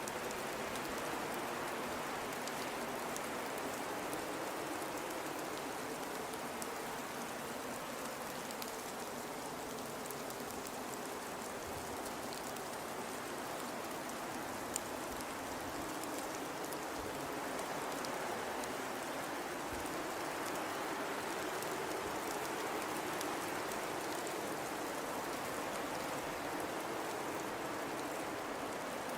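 Blizzard wind blowing steadily, with a hollow howl that slowly rises and falls in pitch over the constant rush of the storm.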